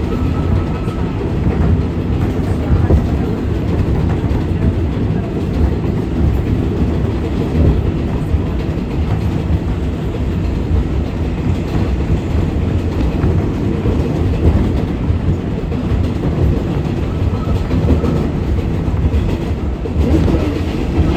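Interior of an R188 subway car on the 7 line running along the track: a steady, loud rumble of wheels and rails with clickety-clack over the rail joints.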